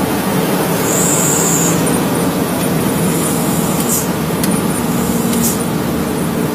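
Heavy truck on the move: steady engine running under loud tyre and road noise, with a few brief high-pitched squeaks and ticks.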